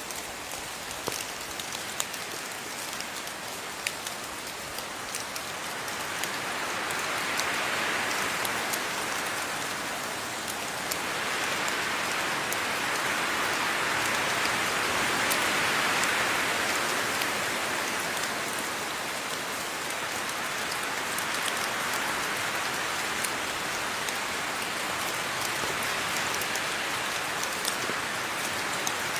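Steady rain falling, with individual drops ticking sharply on a surface; the downpour swells heavier for a few seconds twice, about a quarter and a half of the way through, then eases.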